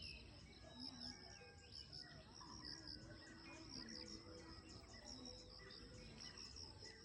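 Faint natural ambience of insects chirping in a steady, rhythmic train, with scattered short bird calls and whistles over it.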